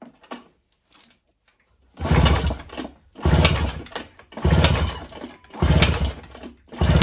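Mercury 2.2 hp outboard being pull-started by its recoil starter five times in a row, about one pull a second, the engine turning over on each pull without firing: a no-start, not even a pop. A few light clicks come before the first pull.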